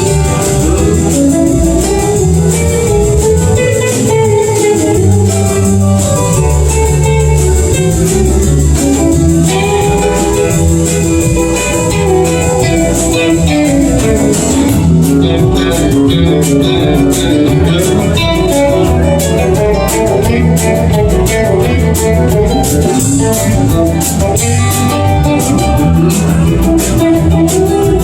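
Live blues band playing an instrumental break, with a guitar carrying the lead over a steady bass line; from about halfway in, quick cymbal strokes join the beat.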